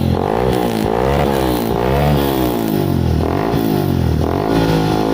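Honda CB150F single-cylinder engine breathing through an aftermarket HKS exhaust, revved up and down over and over, about once a second.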